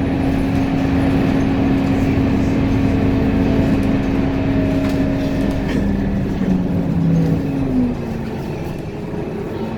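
Train running with a steady motor hum over rumbling noise. The hum's pitch falls and the level drops about eight seconds in, as the train slows.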